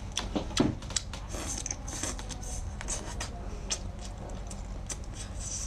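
Close-up crunching while chewing crisp deep-fried shrimp: a steady string of sharp, crackly crunches.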